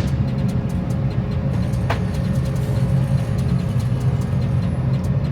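Steady low mechanical rumble of background machinery at the range, with one sharp crack about two seconds in and a few faint clicks.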